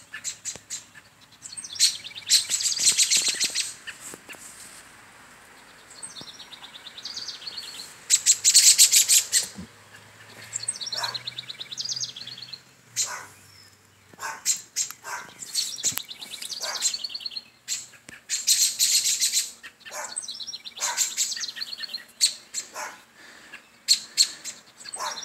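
Songbirds calling in loud, rapid chattering bursts that come every few seconds, with short single chirps in between.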